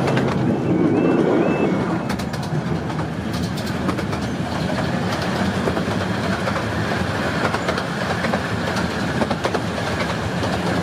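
Ride noise aboard a carriage of the 15-inch-gauge Romney, Hythe and Dymchurch Railway: a steady rumble of wheels on the track with irregular clicks as they run over rail joints.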